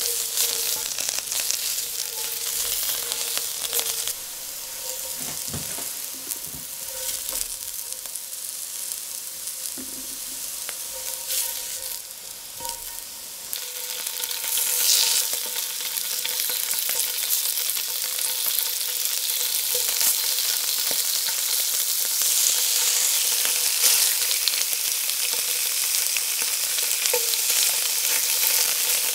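Carrot pieces sizzling in hot oil in a steel pot, stirred and scraped with a silicone spatula. About halfway through, slices of firm tofu are laid into the oil and the sizzling grows louder.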